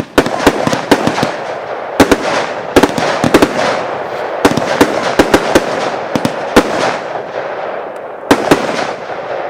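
Fireworks going off: many sharp bangs at irregular intervals over a dense crackling hiss, which dies down near the end.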